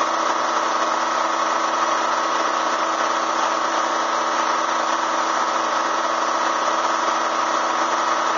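Bee vacuum's motor running steadily, a constant even drone.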